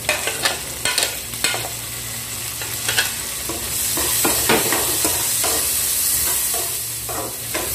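Garlic and freshly added onion sizzling in hot oil in a pan while a utensil stirs them, clicking and scraping against the pan. The sizzle grows louder a little before halfway through.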